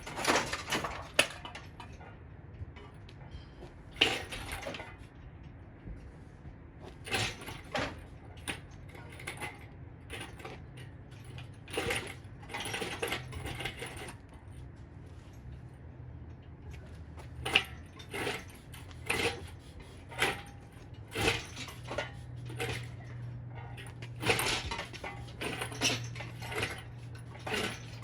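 Metal clinks and clanks of tools and parts being handled during engine removal, a separate knock every second or two, over a low steady hum.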